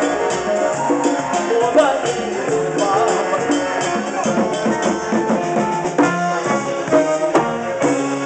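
A live band playing, with drums and shaken percussion over sustained pitched instruments. Several sharp, accented hits come together in the last couple of seconds.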